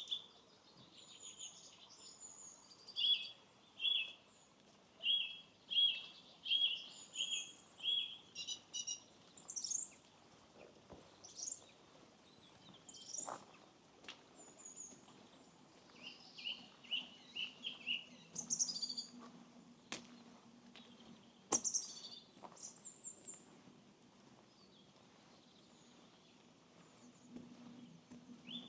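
Several small songbirds singing and calling, with a run of short chirps repeated about once or twice a second early on, over a faint steady background. A faint low hum comes in during the second half, and there are a few sharp clicks.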